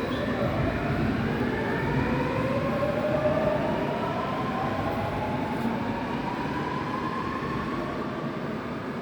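Subway train pulling out: the whine of its electric traction motors rises steadily in pitch as it accelerates, over the rumble of the wheels on the track.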